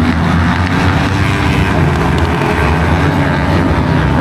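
Motorcycle engines running, a loud steady drone with no clear pass-by.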